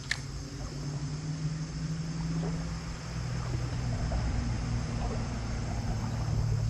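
A steady low hum, like a small motor running, with insects trilling high above it and a single sharp click just after the start.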